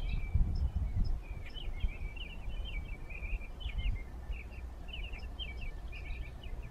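A small songbird chirping a rapid string of short, quick notes through most of the clip. A low rumbling noise is loudest in the first second or so.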